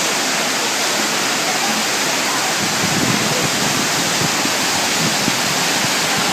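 Hotel's man-made waterfall: water pouring and splashing in a steady, unbroken rush.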